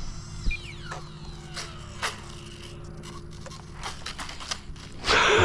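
Small electric ducted-fan RC jet coming in to land, its fan whine falling in pitch as it throttles down, with scattered clicks and scrapes of the light airframe on the ground and a louder rush of noise near the end.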